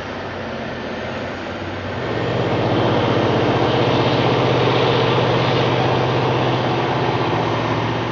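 Heavy machine's engine running with a steady low drone, growing louder about two seconds in and holding there.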